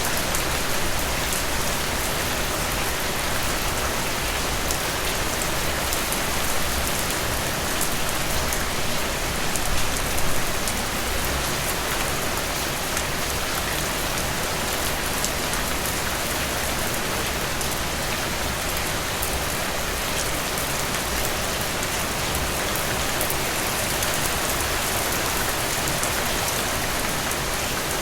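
Heavy rain falling steadily: a dense, even hiss of many drops, with a brief slightly louder patch about ten seconds in.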